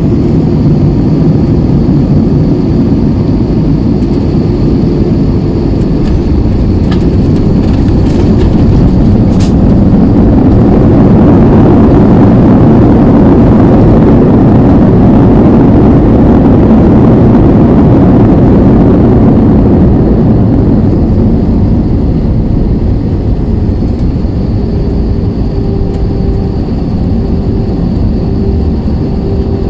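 Airbus A320 jet engines and airframe rumble heard from inside the cabin during the landing. A loud, steady roar swells about ten seconds in, stays at its loudest for several seconds, then eases off, as on touchdown and the landing roll.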